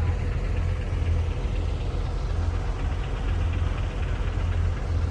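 Heavy diesel engine of earthmoving machinery running steadily: a low drone that swells and eases unevenly.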